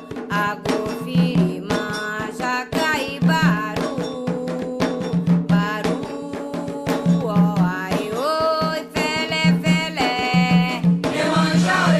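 Candomblé Ketu chant for Xangô, sung over a steady beat of hand drums with sharp percussion strikes.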